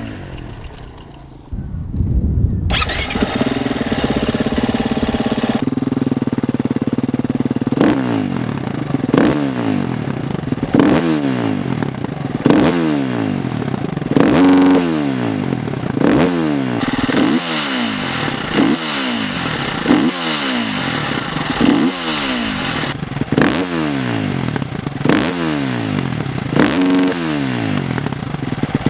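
A 2017 Husqvarna enduro dirt bike on its stock exhaust: after a brief quieter moment the engine comes in about two and a half seconds in and idles. It is then revved in about a dozen short throttle blips, each rising and falling in pitch, every couple of seconds.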